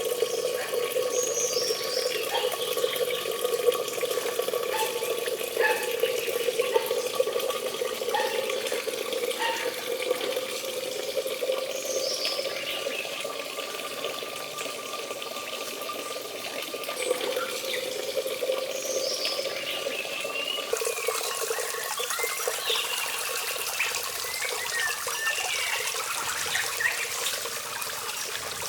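Water running steadily, like a tap or pouring water, with short high squeaks scattered over it. The background sound changes about two-thirds of the way through.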